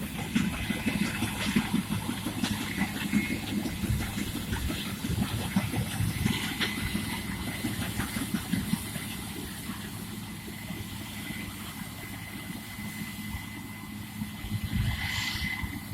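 A farm machine's engine running steadily, with a thin steady whine and scattered clicks and rattles.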